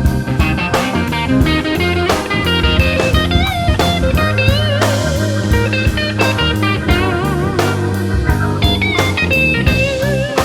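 Electric blues band playing an instrumental break: a lead guitar holds wavering notes with heavy vibrato over a stepping bass line and a steady drum beat.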